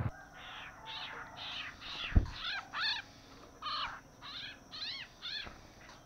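A songbird calling: a run of short, clear chirps that rise and fall in pitch, about two a second, broken by a brief pause near the middle. A single dull thump about two seconds in.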